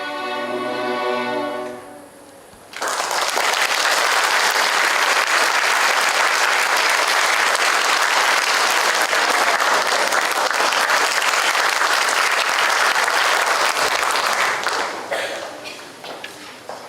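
A school band holds a final chord that ends about two seconds in, followed by an audience applauding steadily for about twelve seconds, then thinning to scattered claps.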